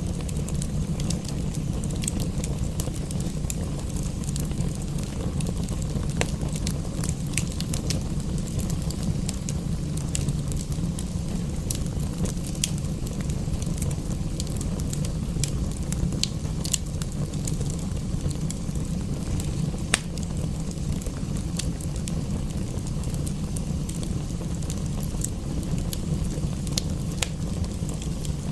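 Wood fire in a fireplace crackling, with frequent irregular pops and snaps over a steady low rumble and a soft hiss; one louder pop about twenty seconds in.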